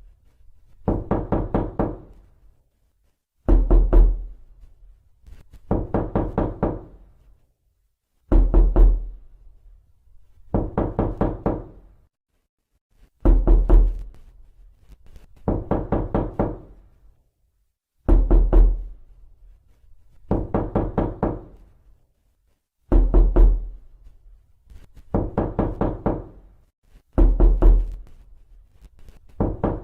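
Knocking on a door in a repeating pattern: a short group of heavy, booming knocks followed by a quicker run of about five lighter knocks, the pattern coming round about every five seconds with silence between.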